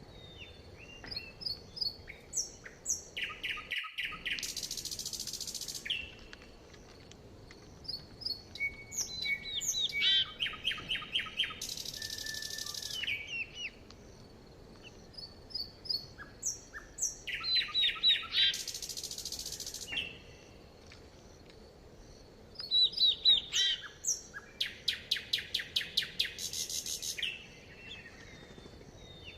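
Songbirds singing. One bird repeats a phrase four times, a quick run of notes ending in a hissing buzz about a second and a half long, while other birds give short, high chirps between the phrases.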